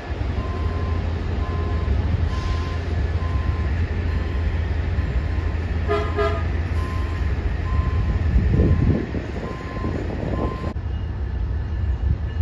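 Amtrak Acela train pulling in slowly with a steady low rumble, a short high ding repeating a little faster than once a second, and a quick double horn toot about six seconds in.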